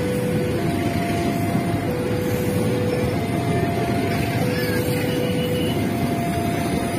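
Passenger train coaches rolling over the crossing with a steady loud rumble of wheels on rails. Over it the level-crossing warning alarm sounds a two-tone signal, alternating high and low notes of a little over a second each, which warns that a train is passing.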